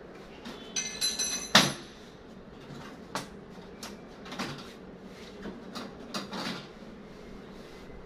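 Metal parts clinking and knocking as they are handled, with a short ringing clink about a second in, a sharp knock just after, and a run of softer knocks.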